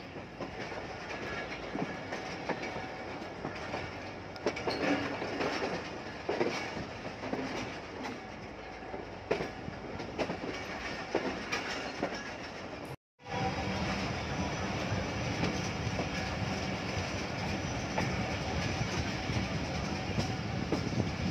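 Passenger train coaches running at speed on the line, heard from on board: a steady rumble of wheels on rail with repeated clacks as the wheels pass over rail joints and pointwork. The sound cuts out for a moment about two-thirds through, then the rumble carries on more evenly.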